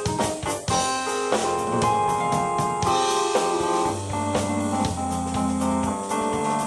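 Live keyboard and drum kit playing a rock jam: sustained keyboard chords over a bass line, with steady drum hits.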